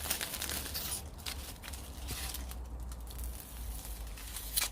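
Irregular crinkling and crackling clicks over a steady low rumble, densest in the first second and again just before the end.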